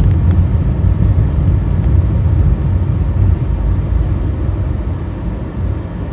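Low, steady rumble of a car being driven, engine and road noise, easing off a little near the end.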